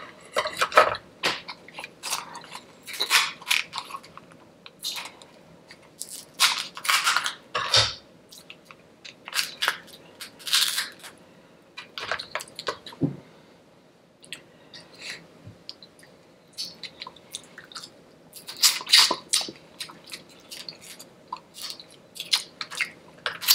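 A person chewing and crunching food in irregular clusters of bites, with a brief lull near the middle.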